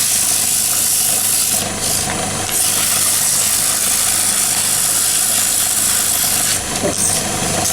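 Sandpaper rubbing on a wooden knife handle spinning on a lathe: a steady hiss over the hum of the running lathe. The rubbing lifts off briefly twice, about two seconds in and near the end.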